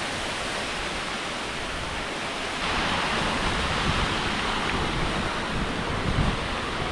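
Steady rush of falling water from a waterfall and creek. About two and a half seconds in it becomes louder, with wind buffeting the microphone.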